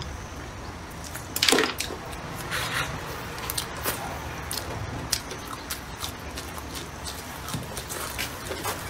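Close-up eating sounds: chewing and mouth smacks made up of many short clicks. The loudest is a sharp crackling burst about one and a half seconds in.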